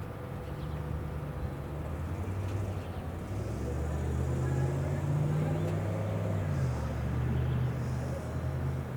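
A vehicle engine runs with a low, steady hum that grows louder about halfway through and eases slightly near the end.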